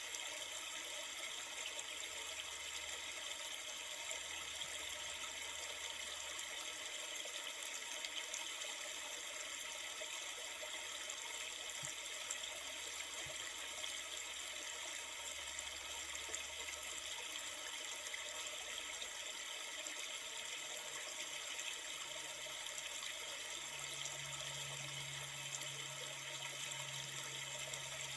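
River water flowing steadily, an even rushing background of running water.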